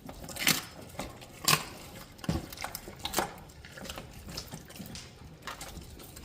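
A dog's feeding bowl knocking and clinking as it is handled: a few sharp knocks about a second apart, the loudest about one and a half seconds in.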